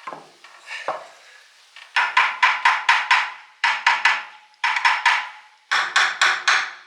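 Quick runs of hammer blows on the metal of an old Greaves horizontal mill's motor, each ringing briefly. After a couple of light knocks come four bursts of six, three, three and four strikes, at about four to five a second.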